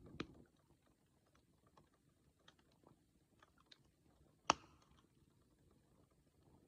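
Wood campfire burning with faint, scattered crackles, a sharp pop just after the start and a louder single pop about four and a half seconds in.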